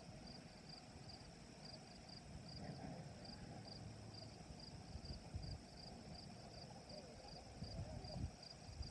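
Crickets chirping, one repeating a short high chirp about twice a second over a steady high insect trill.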